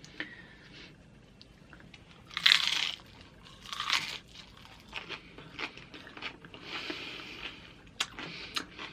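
Biting into loaded nachos made with jalapeño tortilla chips: two loud crunches, about two and a half and four seconds in, then crunchy chewing with small clicks.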